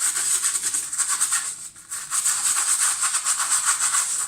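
Brush bristles scrubbing a soapy plastic mesh dishwasher filter in quick back-and-forth strokes: a fast, rasping rhythm with a short break about a second and a half in.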